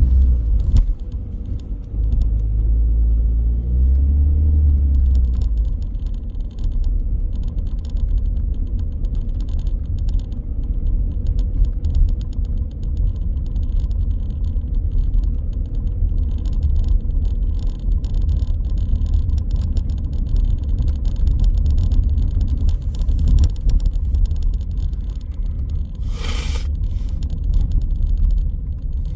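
A car driving on city streets: a steady low rumble of engine and tyres on the road, with the engine note rising as it accelerates a few seconds in. There is a brief hiss near the end.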